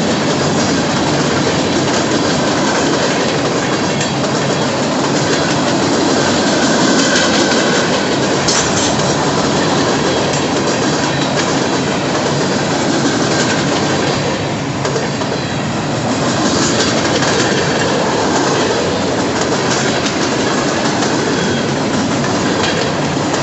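Freight cars of a BNSF freight train rolling past at speed: a loud, steady rumble of steel wheels on rail with clickety-clack from rail joints and a faint wheel squeal.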